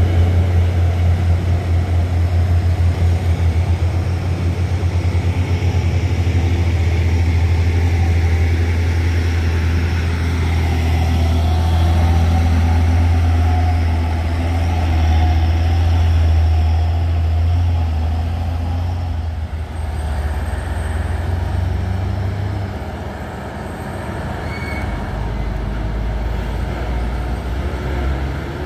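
Heavy truck engine running with a deep, steady drone on a climb; the drone drops away about 22 seconds in, leaving quieter engine and road noise.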